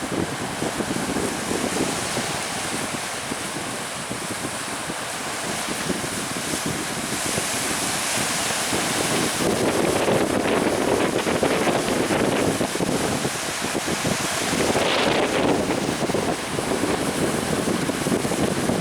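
Strong wind buffeting the microphone and sea waves rushing and splashing around a small fishing speedboat under way. The noise swells partway through, with a louder surge of spray about fifteen seconds in.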